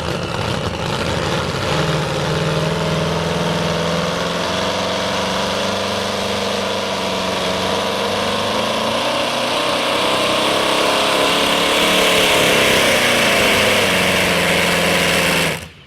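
Modified two-wheel-drive pulling truck's engine running hard under load on the pull, a loud steady drone that rises a little in pitch and then cuts off suddenly near the end. The engine isn't coming up to its full RPM.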